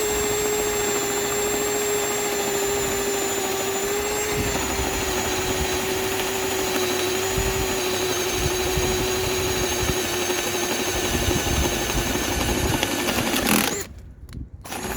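Bauer 20-volt cordless drill running in its low-speed gear, boring through wood with a spade bit. The motor's steady whine sags slowly in pitch under load and stops near the end.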